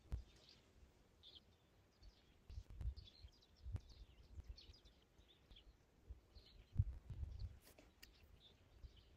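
Small birds chirping and calling on and off, with a few low thumps and rumbles, the loudest about seven seconds in.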